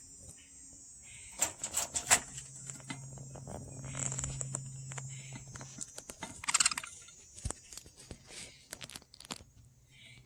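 Budgies pecking and nibbling at broccoli: irregular sharp clicks and taps, with short chirps now and then and a louder flurry of pecking a little past the middle.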